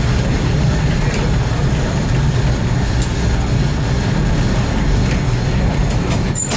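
Steady low rumble inside a moving Metra commuter train coach, with a few faint clicks as the wheels pass over rail joints and switches.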